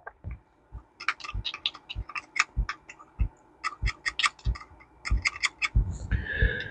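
Small metal parts of a fishing reel being handled and fitted with tweezer pliers: a run of light, irregular clicks and taps, several a second, starting about a second in, with a short scrape near the end.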